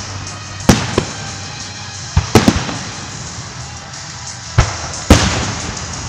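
Fireworks display: aerial shells bursting in loud bangs, a pair about a second in, a quick cluster around two and a half seconds, and two more near the end, each trailing off in a fading echo over a steady hiss.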